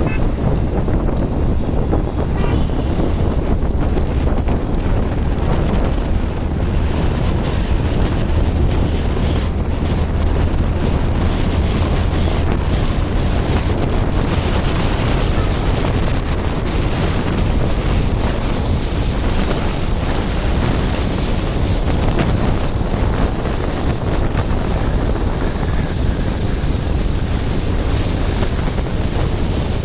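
Wind rushing over the microphone of a camera on a moving motorcycle, a steady loud roar with road and engine noise underneath and a low hum that swells in the middle.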